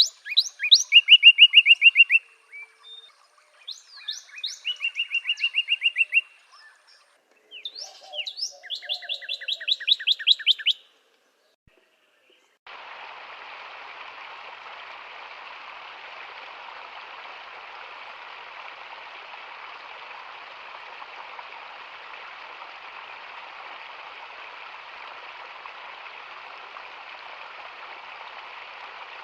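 A songbird singing fast trills of rapidly repeated notes for about the first ten seconds, followed by a short silence. Then a steady water hiss sets in and continues unchanged.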